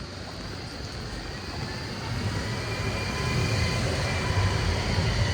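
A tram drawing closer, its low rumble and faint electric motor whine growing steadily louder.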